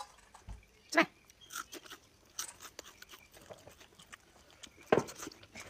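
Close-up chewing of crunchy fried skewered food: a run of small crunches and mouth clicks, with two louder crunches about one second in and near the end.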